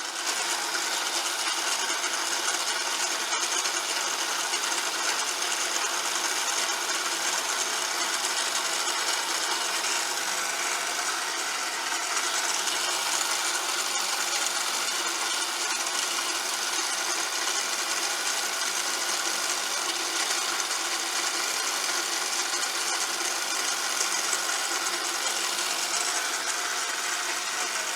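Milling machine running steadily, its motor and spindle giving a constant whine over a hiss.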